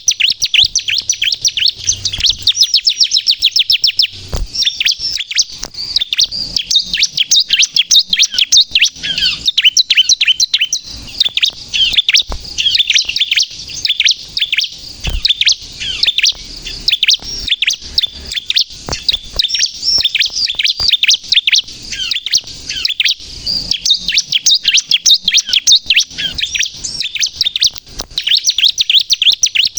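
Bar-winged prinia (ciblek) singing energetically: rapid, almost unbroken runs of sharp high chirps with only brief pauses. This is the kind of song bird keepers play to lure wild prinias and to rouse caged ones.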